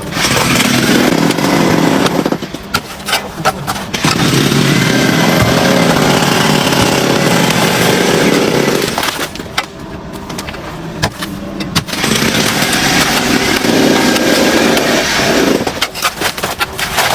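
Loud motorized machinery running in long steady stretches with a low hum, broken three times by stretches of rapid clattering clicks and knocks.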